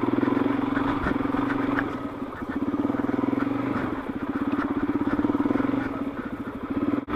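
Suzuki DRZ400S single-cylinder four-stroke dirt-bike engine running under load through sand, with a fast steady pulsing. The revs ease off briefly about two and four seconds in and again just before the end.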